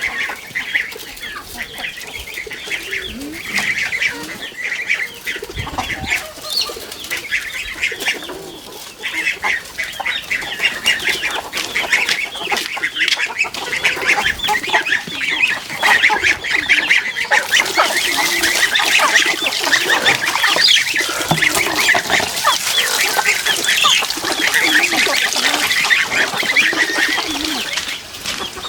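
A flock of farm poultry calling together, many short overlapping calls at once. The din grows louder and denser about halfway through.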